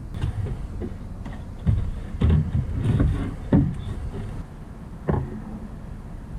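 About five separate knocks and clunks over a low, steady rumble, the loudest a little past a second and a half in and again around three and a half seconds.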